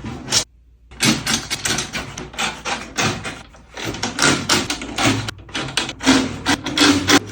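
Snare drum being tuned: a quick, irregular run of clicks and knocks as drum keys work the tension rods and the head is tapped, with short pitched thuds from the head near the end.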